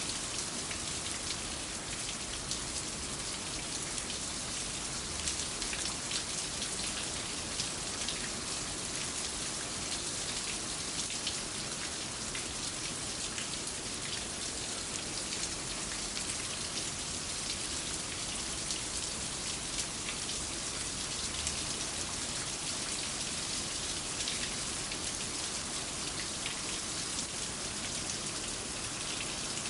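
Steady rain, with many individual drops ticking sharply on a hard surface over the hiss of the downpour.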